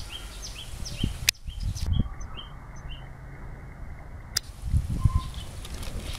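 A small bird chirping over and over, short falling notes about two a second, over low rumbling thumps. Two sharp clicks come a little over a second in and past four seconds.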